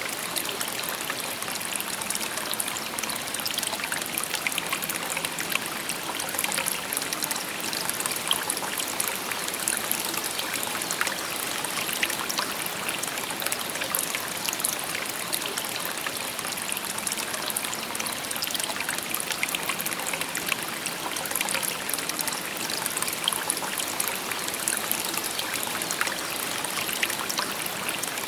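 A shallow river babbling over stones: a steady rush of flowing water with many small splashes and trickles.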